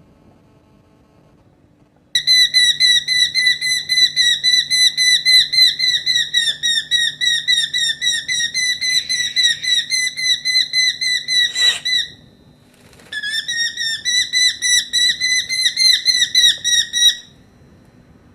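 Young peregrine falcon calling: a long run of rapid, high, repeated notes, about five a second, starting about two seconds in. The notes break off for about a second near the middle, and a brief knock comes just before the break; they resume and stop a little before the end.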